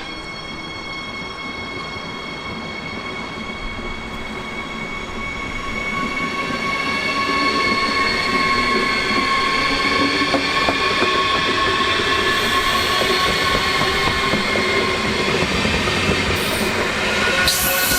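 Electric train approaching and running past, with a high whine made of several steady tones that drift slightly in pitch over a rail rumble. It grows louder over the first eight seconds, then holds.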